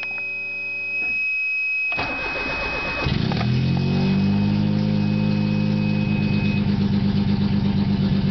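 A 1991 Geo Metro's three-cylinder engine starts from cold. It cranks about two seconds in, catches a second later and settles into a steady cold idle with a fast, even ticking, the lifter tick it is being checked for. A faint steady high tone sounds underneath until near the end.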